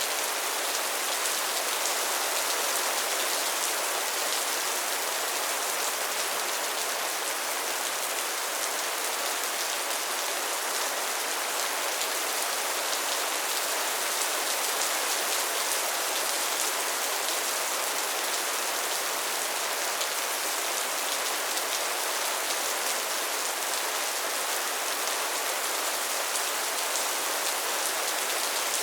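Steady rain falling, an even hiss of many drops on surfaces with no let-up or thunder.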